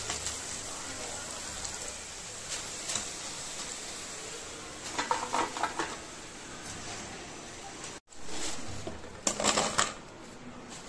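Potato fries deep-frying in hot oil in a wok, a steady sizzle. Two short bursts of metal clatter from utensils and pans, one about halfway through and one near the end.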